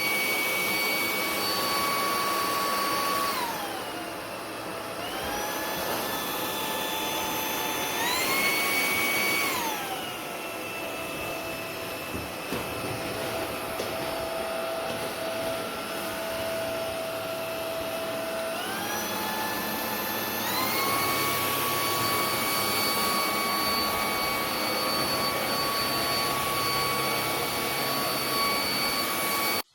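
Duronic VC8 stick vacuum cleaner running: a motor whine over a rush of air, dropping in pitch about three seconds in and again about ten seconds in, and climbing back up around eight seconds and twenty seconds. The owner finds it does not pick up even basic debris.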